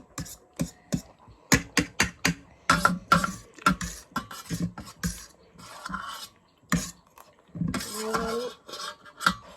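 Spicy instant noodles being eaten: quick clicks of utensils against a bowl, mixed with short slurping and chewing noises.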